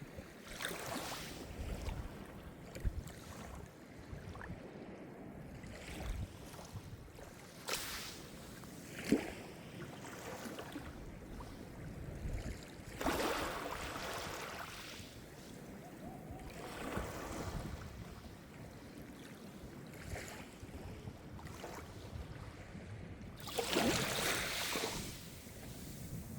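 Small Mediterranean waves breaking and washing on the shore, in irregular swells with short splashes, and two larger washes, one around the middle and one near the end.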